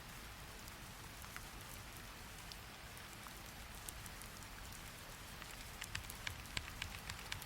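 Steady hiss of falling rain, with sharp clicks of typing on a computer keyboard, scattered at first and becoming a quick run of keystrokes about three-quarters of the way in.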